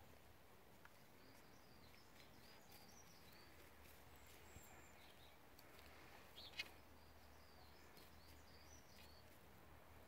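Near silence: quiet outdoor air with faint, high, twittering bird calls in two spells, and one brief sharp sound about two-thirds of the way through.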